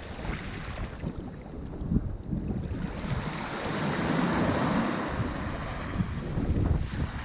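Ocean waves breaking and washing up a shore, one wave's hiss swelling about halfway through and easing off, with wind buffeting the microphone.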